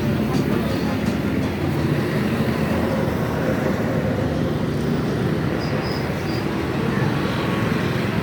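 Steady vehicle noise: a running engine and road rumble that go on without a break.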